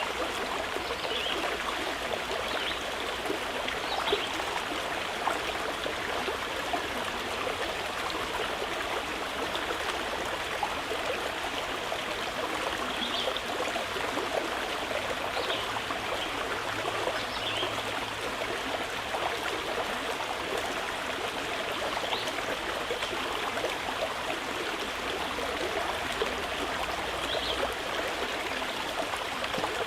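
A mountain river flowing in a steady rush of water. A few brief, faint high bird chirps come now and then over it.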